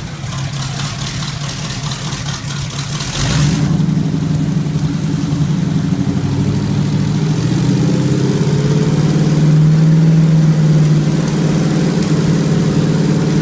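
Freshly started Chevy engine running on an engine test stand, rougher for the first few seconds, then settling into a louder, steady run that rises a little for a moment about ten seconds in. It is being run in to break in a newly replaced camshaft.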